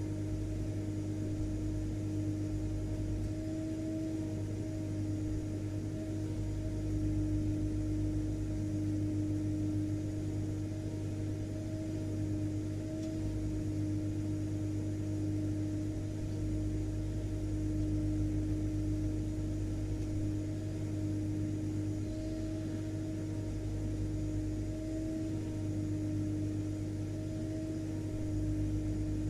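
Vacuum cleaner running steadily: an even motor drone with a held low hum-like tone and a low rumble, unchanging throughout.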